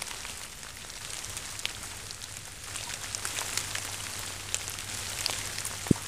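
Light rain falling, with many individual drops ticking sharply close by over a steady hiss; one louder tap near the end.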